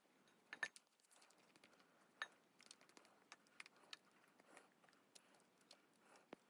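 Near silence with faint, irregular light clicks and taps: a utensil knocking against a mixing bowl while butter and sourdough discard are stirred together.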